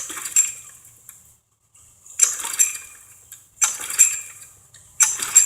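Push mower's recoil starter pulled four times in a row, each pull a rattling, clattering burst of rope and starter; the flathead engine turns over but never fires.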